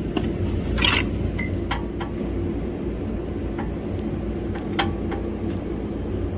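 A motor running steadily with a low, even hum, while metal parts or tools clink a few times, the loudest about a second in.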